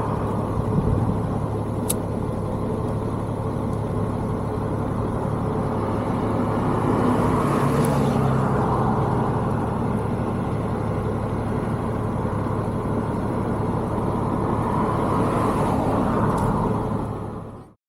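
Motorcycle engine running steadily at cruise, with wind and road noise, cutting off abruptly near the end.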